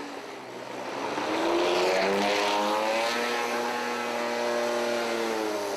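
BMW E30 drift car's engine revving up about a second in and held at high revs through a drift, the pitch easing off near the end, over the noise of spinning tyres.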